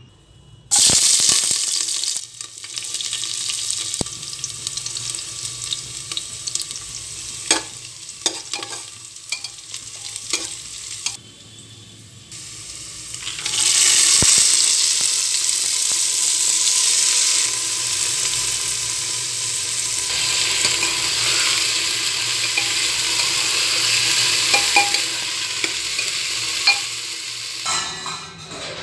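Oil sizzling in a pot as onions and spices fry, with a spatula clicking and scraping against the metal. About 13 seconds in, boiled black chickpeas are tipped in and the sizzling gets louder as they are stirred, until it stops near the end.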